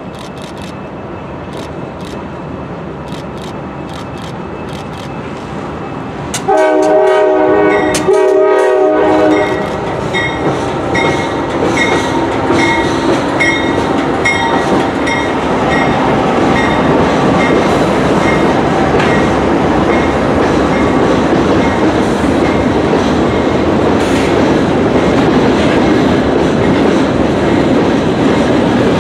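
A CSX freight train approaching on a wooden trestle. The diesel locomotives' rumble builds, then the horn sounds two long blasts about six and a half seconds in. The locomotives pass close by and the cars follow with a steady rumble and clickety-clack of wheels on the trestle.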